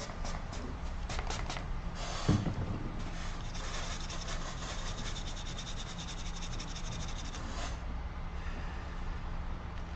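Underfill resin being scraped off a phone's circuit board around an IC, in short scratchy strokes that become a fast, even run of scraping in the middle.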